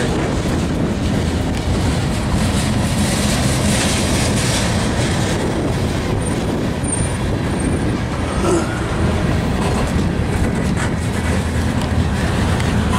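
Freight train passing: lumber flatcars, tank cars and boxcars rolling by, their steel wheels running on the rails with a steady, even noise.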